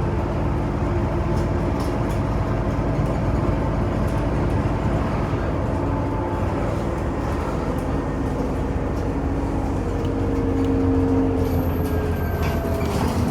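Scania OmniCity city bus on the move, heard from inside: a steady low engine and drivetrain hum whose tones drift slowly. Near the end the pitch falls as the bus slows, with a few rattles and clicks.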